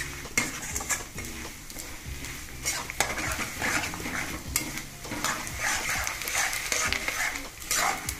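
Edible gum (gond) sizzling as it fries and puffs in hot ghee in a kadai, while a steel spatula stirs and scrapes it around the pan. A few sharp knocks come from the spatula striking the pan.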